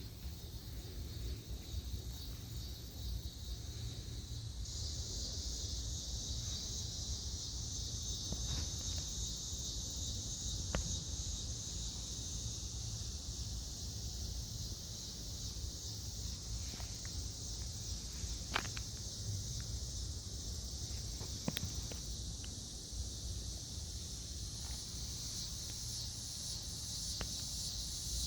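Steady high-pitched insect chorus that gets louder about five seconds in, over a low rumble, with a few sharp clicks scattered through it.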